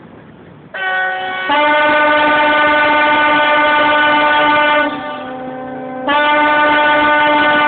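Ship's horn sounding long, loud blasts of several tones at once as the ship sets out. One blast holds for over three seconds, then, after a short lull in which a fainter lower tone carries on, a second blast starts.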